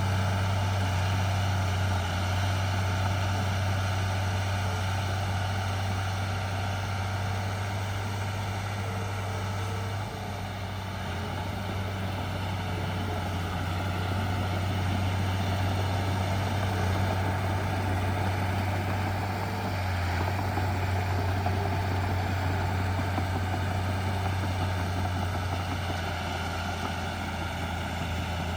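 Heavy diesel engine of earthmoving machinery running steadily with a deep, constant hum, easing briefly about ten seconds in.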